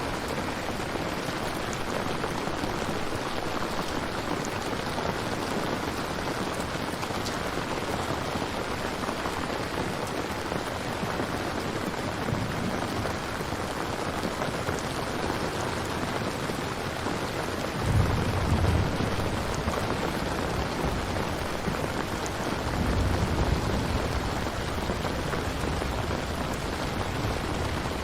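Steady rain falling, with a low rumble of thunder about two-thirds of the way in and another shortly after.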